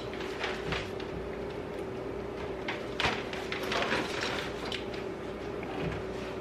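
Light knocks and clatters of kitchen things being handled and put away, with a sharp knock about three seconds in and a few more soon after, over a steady hum.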